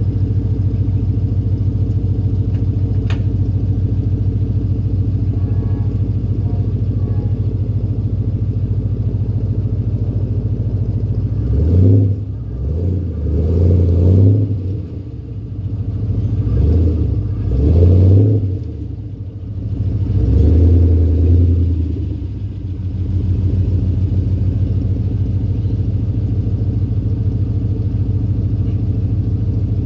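Holden VZ Commodore SS ute's 5.7-litre LS1 V8 idling through a custom twin 2.5-inch catback exhaust with straight-through mufflers. Midway it is revved in five short blips, then settles back to a steady idle.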